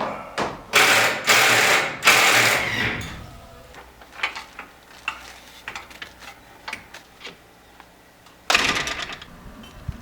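A power tool run in short bursts, one long burst of about two seconds near the start and a shorter one near the end, with scattered clicks and knocks of handling between them.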